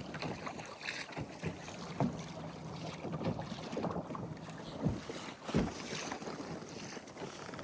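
Kayak under way on an electric trolling motor at near full speed: water rushing along the hull and wind on the microphone, with a faint low motor hum and a few louder thumps of water against the hull.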